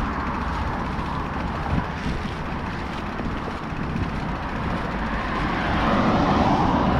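Road traffic noise, with a passing vehicle growing louder near the end.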